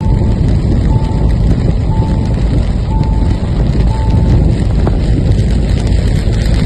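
Steady low rumbling noise, with a short electronic beep repeating about once a second, five times, stopping about four seconds in.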